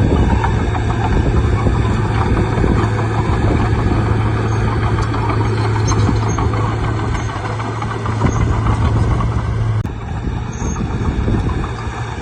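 Bulldozer's diesel engine running under load, a steady low hum over dense mechanical noise. The hum cuts off sharply a little under ten seconds in, and the machine noise carries on.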